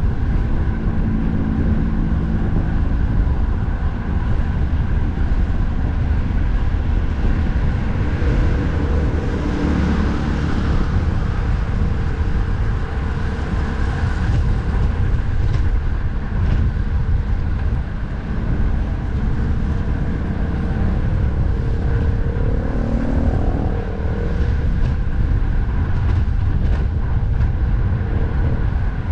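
Wind rumbling over the microphone of a moving bicycle, with steady road traffic on a busy expressway; near the end one vehicle's engine rises in pitch as it passes.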